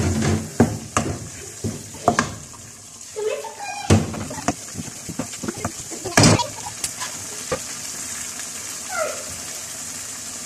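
Beef masala sizzling in oil in a non-stick frying pan while a wooden spoon stirs and scrapes through it, with frequent knocks of the spoon against the pan. The knocking stops about three-quarters of the way in, leaving steady sizzling. This is the bhuna stage, frying the masala until the oil separates.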